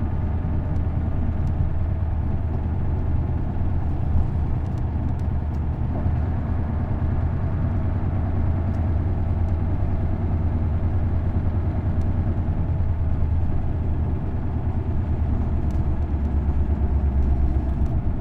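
V8 diesel engine of an Isuzu Erga bus running steadily with a deep hum while the bus is under way. The hum grows a little louder near the end.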